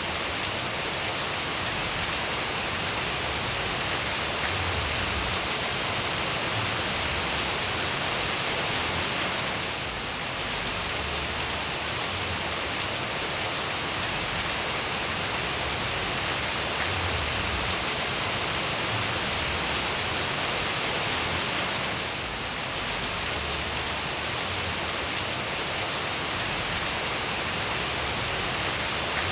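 Steady rain falling, an even hiss of many drops, with the sound dipping slightly for a moment twice, about twelve seconds apart.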